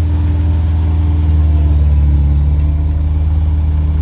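Large vehicle engine idling steadily, swelling a little about halfway through.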